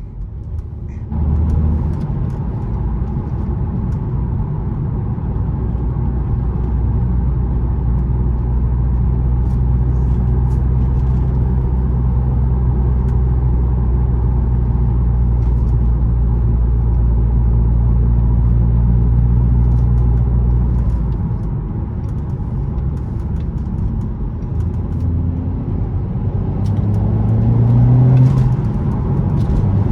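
Audi S3 8P's turbocharged 2.0-litre four-cylinder engine pulling at steady revs, heard from inside the cabin. About two-thirds of the way through it eases off. Near the end its pitch rises under acceleration, then breaks briefly at a gear change.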